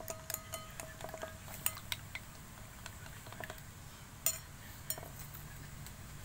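Scattered light clinks and taps of small hard objects, such as a spoon or containers being handled, with the loudest tap a little past four seconds in and another near five.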